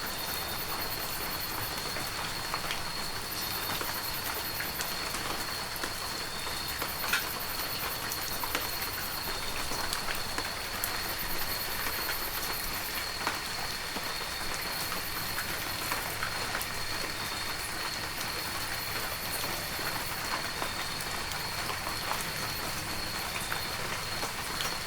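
Steady heavy rain, a constant hiss with scattered sharper drops hitting close by, under a thin high steady tone.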